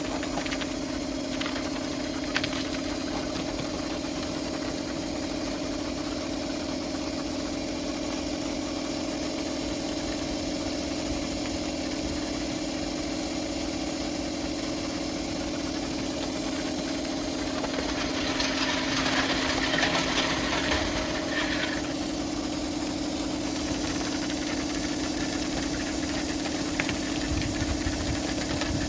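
Pressure washer running with a steady mechanical hum. The high-pressure water spray hisses louder for a few seconds about two-thirds of the way through.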